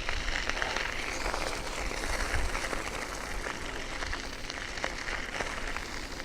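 Strong wind blowing across the microphone: a steady rushing noise, heaviest in the low end, with a few faint ticks.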